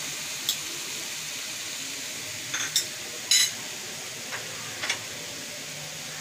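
Soya chunks sizzling in hot oil in a non-stick frying pan, a steady hiss, with a few short light clicks and clatters, the loudest about three and a half seconds in.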